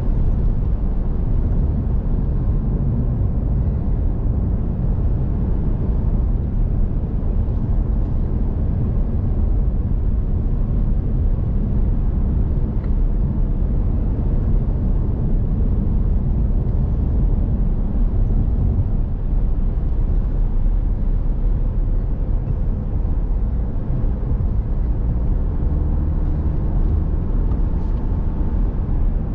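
Steady drone of a car on the move, heard from inside the cabin: low engine and tyre-on-road noise that stays even throughout.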